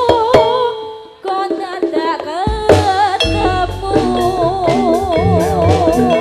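Javanese jathilan music played live: a sung melody with a wavering vibrato over drums and percussion. The music drops away briefly about a second in, then comes back, and heavy drumming enters about three seconds in.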